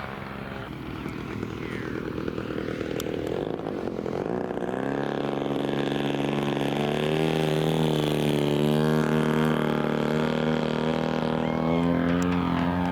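Aircraft engine running: a rough rumble that settles about five seconds in into a steady droning note.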